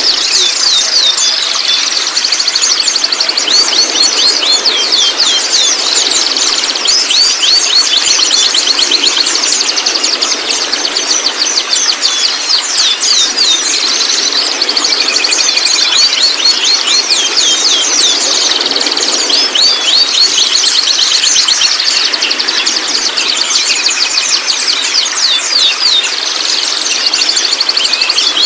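White-rumped shamas calling in rapid, high chirping and twittering notes over a steady high-pitched buzz, a shama lure recording meant to set a young shama singing.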